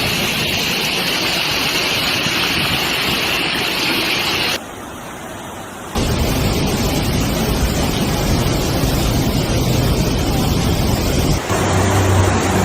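Steady rush of floodwater and rain, with wind on the microphone, over several hard cuts between clips. About four and a half seconds in it drops to a quieter stretch for a second or so, and near the end a low steady hum joins the noise.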